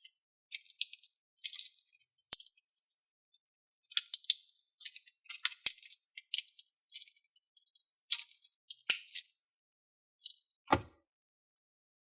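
Glittery slime being squished and kneaded by hand, giving an irregular run of small sticky clicks and pops, with one duller knock near the end.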